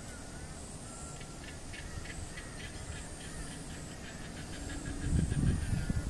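Rapid chattering series of bird calls, a few notes a second, over a low steady rumble; about five seconds in a louder low rumble comes in.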